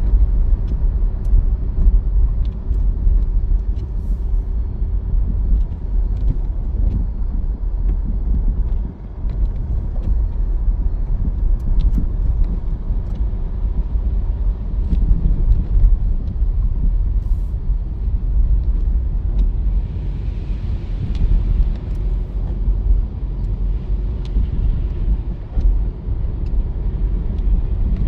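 Loud, uneven low rumble of blizzard wind and street noise, with faint scattered ticks; it dips briefly about nine seconds in.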